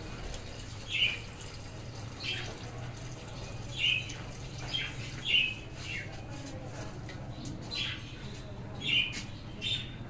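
Small birds chirping: about nine short, sharp calls at irregular intervals of roughly a second, over a steady low hum.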